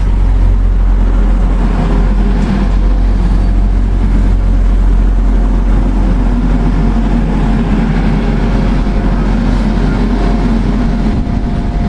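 Class 175 diesel multiple unit running through the station: a loud, steady diesel engine drone over a deep rumble. A steady higher tone joins near the end.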